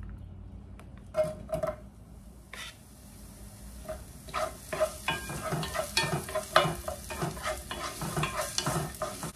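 Chopped garlic and onion sizzling in hot olive oil in a pot, the sizzle starting a few seconds in. A wooden spoon stirs them, knocking and scraping irregularly against the pot from about four seconds in, after a few knocks in the first two seconds.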